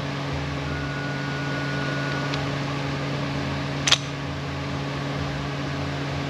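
Steady mechanical hum in the background, with a single sharp metallic click about four seconds in as parts of the air impact wrench are fitted back together.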